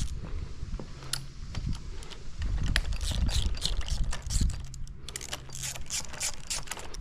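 Hand tools clicking and rattling against the dirt bike's handlebar fittings, in quick irregular runs that are busiest in the second half.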